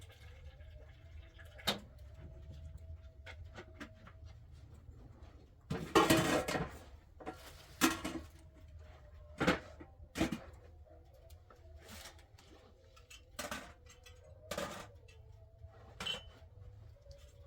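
Dishes and utensils clinking and knocking now and then as food is handled, with a louder clatter lasting about a second around six seconds in, over a faint low hum.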